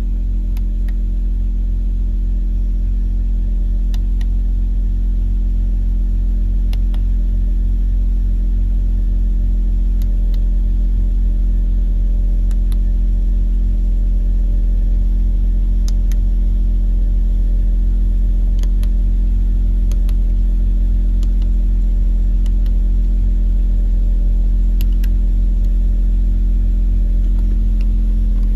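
BMW 325i six-cylinder engine idling steadily, heard from inside the cabin, with a handful of light, irregularly spaced clicks from the buttons of the dashboard onboard computer being pressed.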